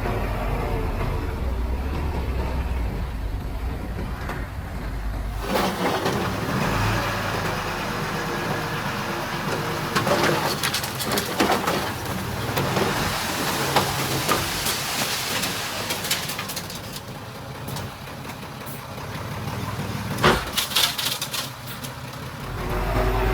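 Heavy construction machinery with a diesel engine running: a low engine rumble, then from about five seconds in a stretch of clattering and scraping with sharp knocks, and the low rumble coming back near the end.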